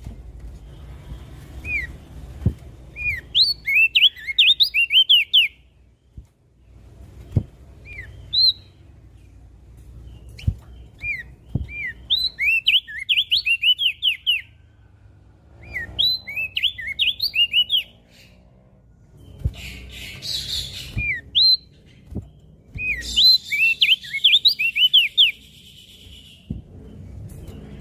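Crested white-eye singing: repeated fast phrases of short, down-slurred whistled notes, each phrase a second or two long with pauses of a few seconds between, over a low background rumble with a few dull thumps.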